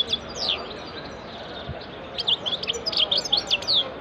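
Caged songbirds chirping in quick runs of short, high, sliding notes: a brief burst at the start, then a longer run from about two seconds in.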